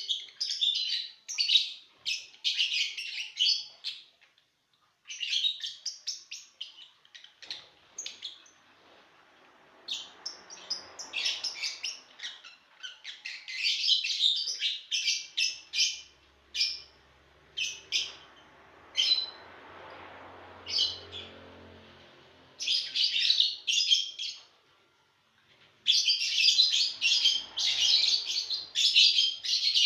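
Lovebirds chattering: rapid, shrill chirps in dense bursts, broken by two brief pauses.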